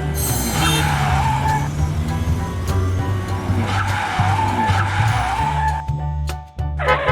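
Car tyres screeching in two stretches, a wavering squeal, over background music with a steady bass beat.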